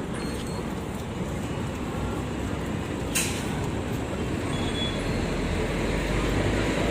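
Steady low rumble of vehicle or train noise, growing louder near the end, with a single sharp click about three seconds in.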